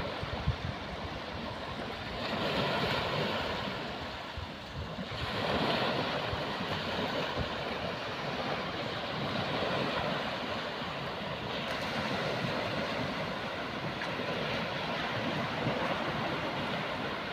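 Sea waves washing onto the shore, swelling about two seconds in and again about five seconds in, with wind on the microphone.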